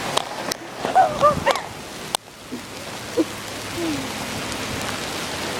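Steady rain hiss with a few sharp clicks. About a second in, short pitched calls rise above it.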